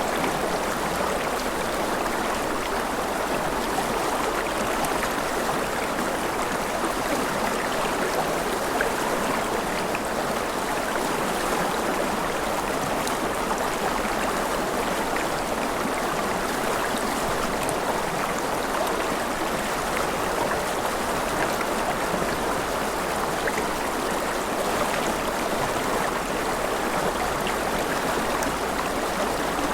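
Gentle rain falling steadily, an even rush of water with faint fine drop ticks throughout.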